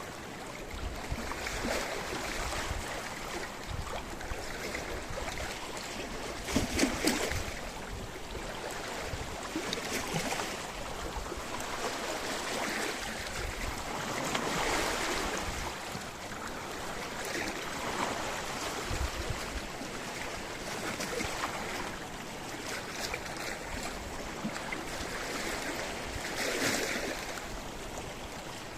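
Sea waves washing against a rocky shore, a continuous wash that swells every few seconds, with sharper splashes about a quarter of the way in and again near the end.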